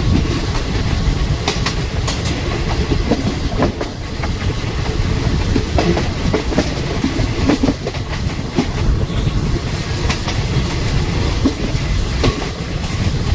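Passenger train running at speed, heard from on board: a steady low rumble with irregular clicks and knocks from the wheels on the track.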